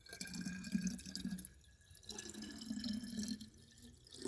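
Water being poured into a bottle, gurgling in two spells with a short break between them.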